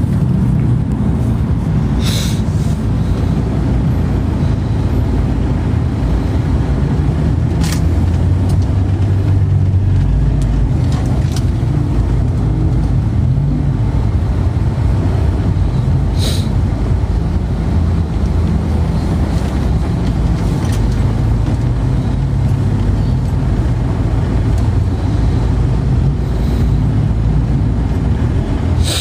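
Steady low rumble of a moving car, with a few brief sharp ticks.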